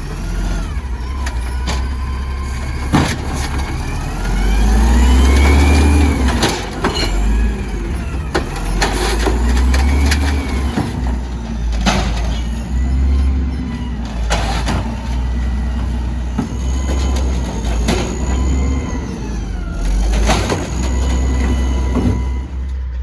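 Garbage truck's engine running and revving up and down again and again, with a whine that rises and falls in pitch each time. Sharp knocks and clangs are heard throughout.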